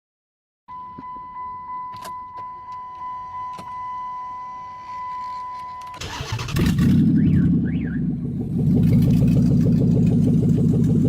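A steady electronic chime tone pulses for about five seconds. Then the 2005 Chrysler 300C's 5.7 L Hemi V8 cranks, catches and keeps running loud and deep; its exhaust is in need of repair.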